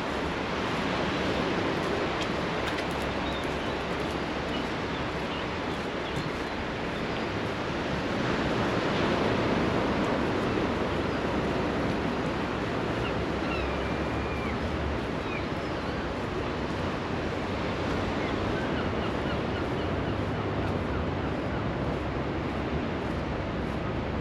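Sea surf washing steadily onto the beach, swelling louder about a third of the way in. A few faint high chirps sound in the middle.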